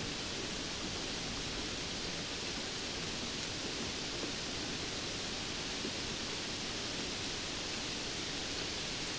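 Steady rainfall, a continuous even hiss with no thunder or other events.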